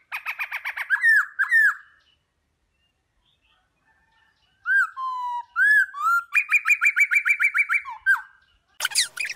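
A songbird singing: rapid trills and short slurred whistles, in two phrases with a pause of about two and a half seconds between them. A busier, noisier passage starts just before the end.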